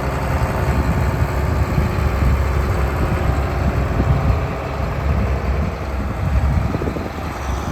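Engine of farm machinery running steadily with a low, even rumble.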